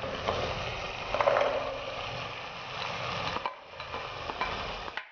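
Methi-coconut masala sizzling in a pot as chopped vegetables (carrot, peas, cauliflower, beans) are scraped in from a bowl with a plastic spatula, with scraping and stirring noises and a few light knocks of the spatula.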